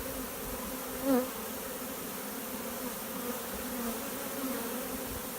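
A swarm of honeybees buzzing in a steady drone, briefly louder about a second in.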